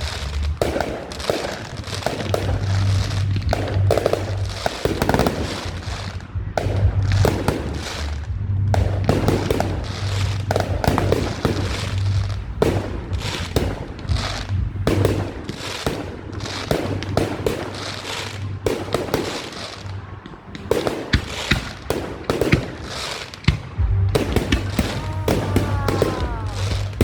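Fireworks going off in a fast, continuous run of bangs and crackling bursts, with a short lull about twenty seconds in. Near the end a few whistles glide in pitch.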